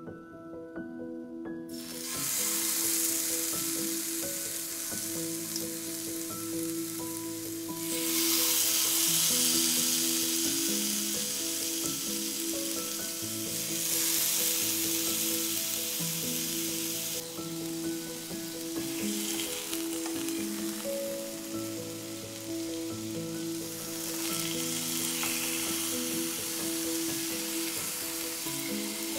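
Marinated pork skewers frying in hot oil in a pan, a steady sizzle that starts about two seconds in and swells louder several times as the meat cooks. Background music plays underneath.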